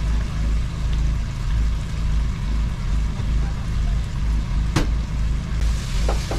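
Steady low mechanical drone of a running engine or motor, swelling and fading about twice a second. A single sharp click comes near the end.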